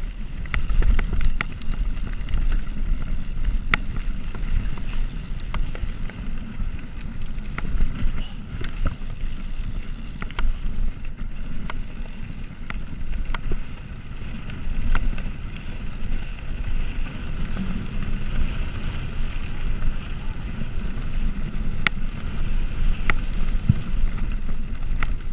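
Wind buffeting the microphone while riding a bicycle: a steady, fluctuating low rumble, with scattered small clicks.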